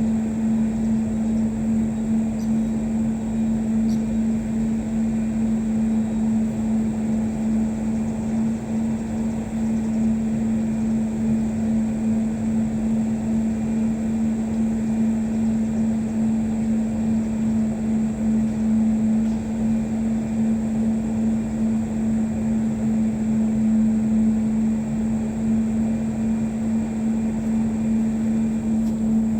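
Steady mechanical drone with a constant low hum and rumble, unchanging throughout.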